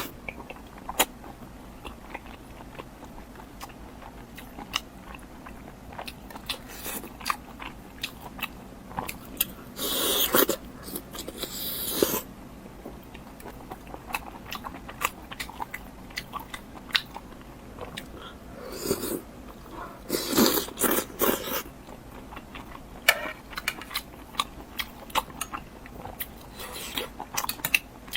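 Close-miked eating: a person chewing and biting food, with many short wet clicks and crunches, and longer, louder crunching stretches about ten seconds in and again around twenty seconds.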